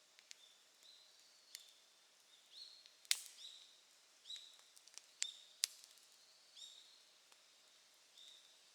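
Wood fire crackling with scattered sharp pops, the loudest a little past three seconds in, under a bird's short rising chirps repeated about once a second.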